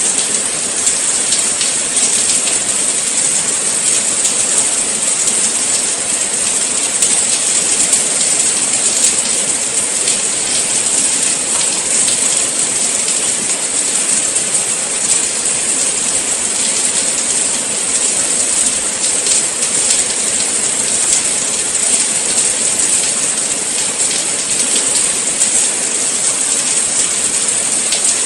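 Steady rain falling, a continuous even hiss that holds at one level without breaks.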